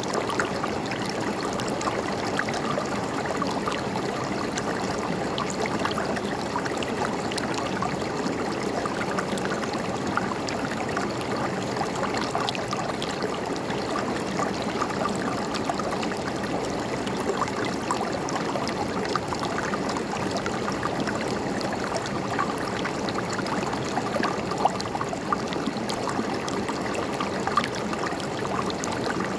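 River water flowing steadily over stones, a continuous rush with many small splashes scattered through it.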